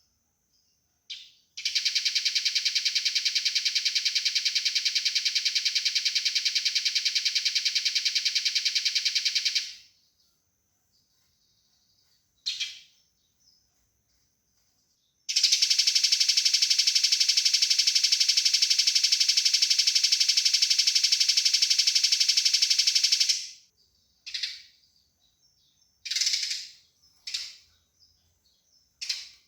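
Eurasian tree sparrow's fighting call: two long, fast, dense chattering rattles of about eight seconds each, with short single chirps before, between and after them.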